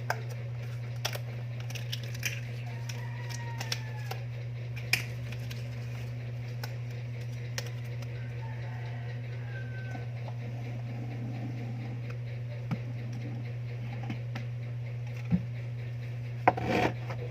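Small plastic containers and spoons being handled and set down, giving sparse light clicks and taps, with a pair of louder knocks near the end, over a steady low hum.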